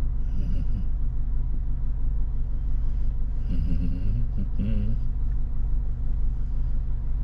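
Low, steady rumble of a stationary car's engine idling, heard from inside the cabin, with faint talk just after the start and again around three and a half to five seconds in.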